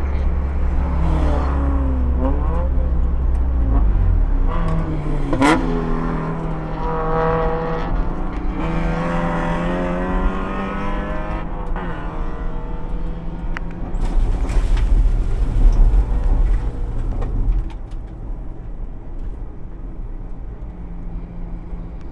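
Spec Miata race car's four-cylinder engine running, its pitch rising and falling with the revs, with one sharp crack about five and a half seconds in. Near the end the sound drops off and stays lower as the engine dies.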